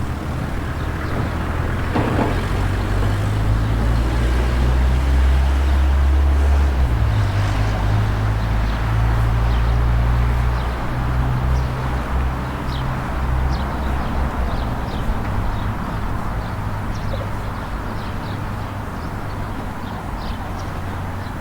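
A motor engine running at low speed, its low hum swelling for several seconds, shifting pitch about a third of the way in, then easing off over street background noise.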